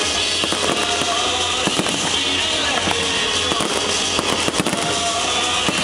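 Fireworks bursting: many sharp bangs and crackles in quick succession.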